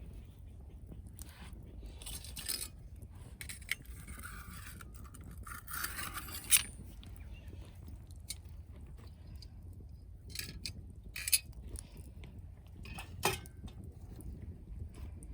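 Wood fire crackling: scattered sharp snaps and pops, with a brief hiss about four to six seconds in, over a steady low rumble.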